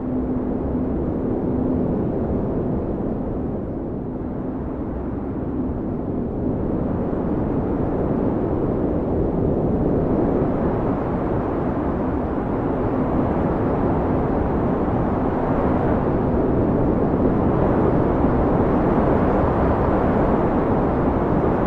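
Blizzard wind blowing hard: a steady low rush that swells and eases in slow gusts, growing louder about a third of the way in, with a faint held howling tone underneath.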